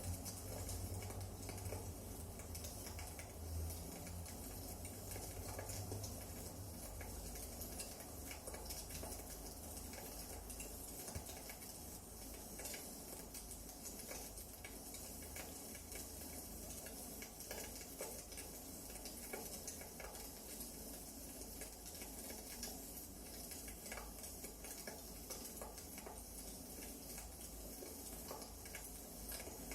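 Wood fire crackling: a soft steady hiss with many small, irregular pops and snaps.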